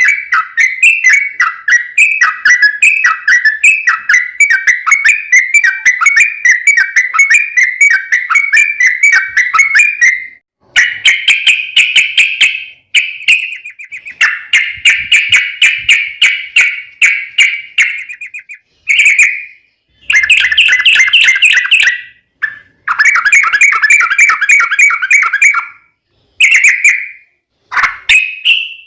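Yellow-vented bulbul (trucukan) song: a long, fast, rolling run of repeated chattering notes. About ten seconds in, it breaks into shorter bursts with brief pauses between them.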